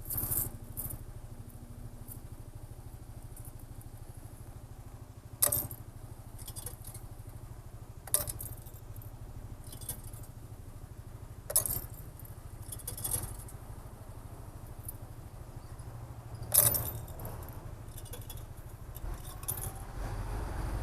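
Honda SH 300i scooter idling steadily while coins clink one at a time into a motorway toll machine, six or so sharp metallic clinks a few seconds apart.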